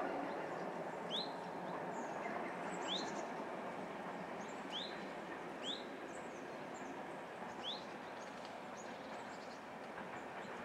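Birds calling: a short rising call repeated five times, a second or two apart, with fainter high chirps between, over a steady background noise.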